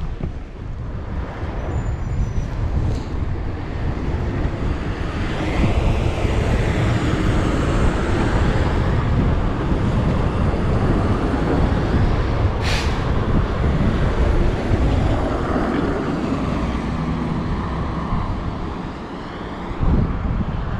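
Road traffic on a snow-covered street: engines and tyres running steadily, growing louder as a vehicle passes through the middle. A short, sharp hiss sounds about two-thirds of the way through.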